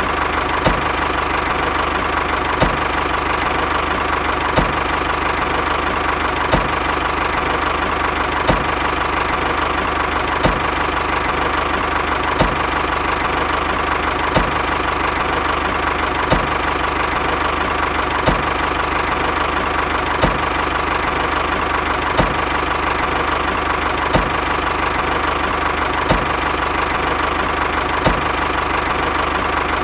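A small motor running steadily with a whine, and a sharp click about every two seconds.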